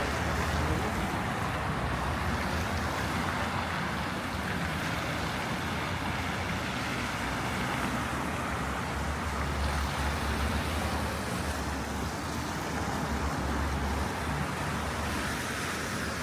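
Steady city street traffic noise: a low, continuous rumble of passing vehicles with a hiss of tyres on the road.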